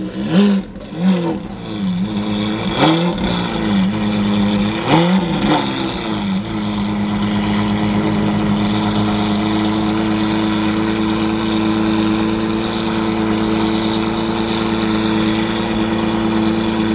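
Lamborghini Aventador's naturally aspirated V12 revved in several short blips, then settling into a steady idle about six seconds in.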